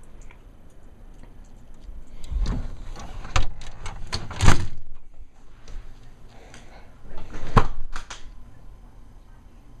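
A door being slid and shut: four knocks and thuds, the loudest about halfway through.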